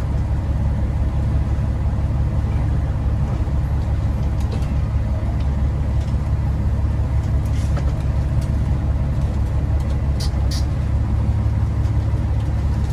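Diesel engine of a loaded big rig running steadily, heard as a continuous low drone from inside the cab.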